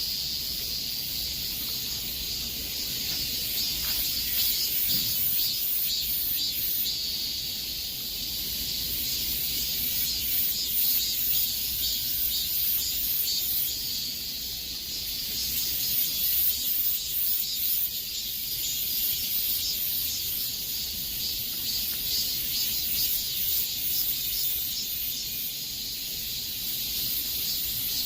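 Chorus of cicadas shrilling continuously, a dense high-pitched buzz that swells and eases in waves.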